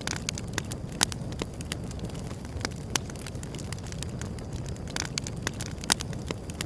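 Wood fire burning, with a steady low rumble of flames and irregular sharp crackles and pops, the loudest about one, three and six seconds in.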